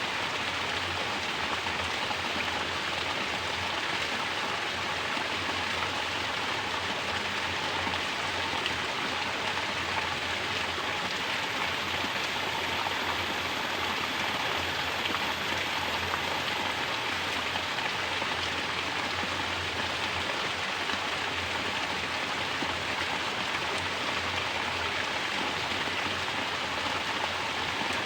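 Mountain spring water pouring steadily from a natural shower and splashing down, an even, unbroken rush with no change in level.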